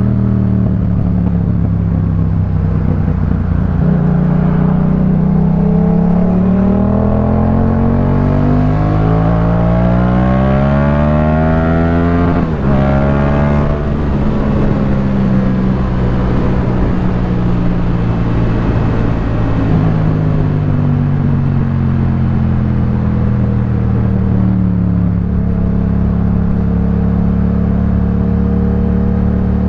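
2018 Yamaha MT-07's parallel-twin engine through a Jeskap K4 full aftermarket exhaust, under way. The revs climb steadily for several seconds, drop abruptly at a gear change or throttle close about midway, then ease slowly down and settle to a steady lower note near the end.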